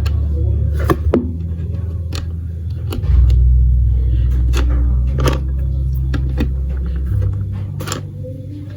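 Marbles rolling along a plastic building-block marble run: a loud low rumble with sharp clicks every second or so as they strike the track pieces.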